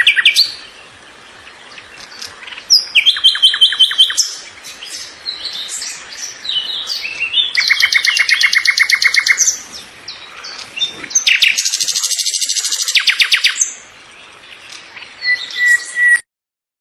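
Songbirds chirping, with several loud phrases of rapid repeated high notes a few seconds apart and softer chirps between them. The sound cuts off abruptly near the end.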